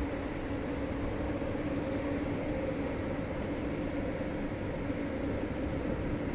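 Interior running noise of a Renfe 446-series electric commuter train: a steady rumble with a low, even hum.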